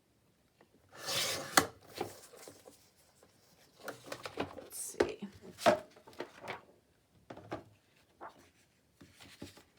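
Paper being handled on a craft table: rustling and a swishing slide that ends in a sharp click about a second and a half in, then several more sharp clicks and taps.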